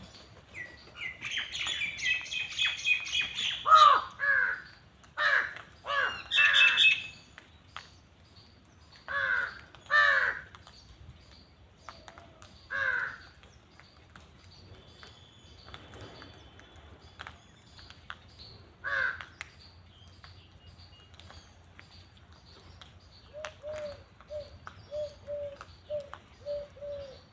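Crows cawing, a string of loud, harsh calls that bend downward in pitch, with a quick run of higher chirps near the start. Near the end comes a steady series of short, lower calls, about two a second.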